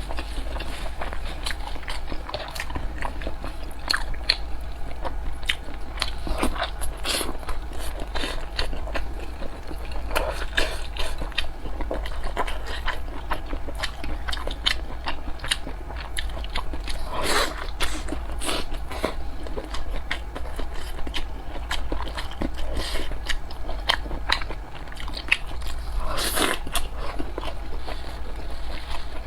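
Close-miked eating sounds: biting into and chewing large thin-skinned steamed dumplings, with many small wet mouth clicks at an irregular pace.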